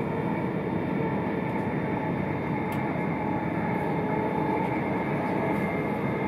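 Electric passenger train running at speed, heard from inside the carriage: a steady rumble of wheels on the track and running gear, with one faint click about three seconds in.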